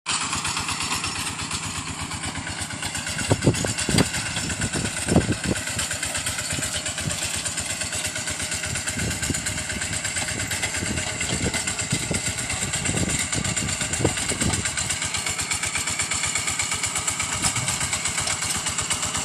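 Tractor engine running steadily while ploughing a rice paddy, with a few low thumps in between.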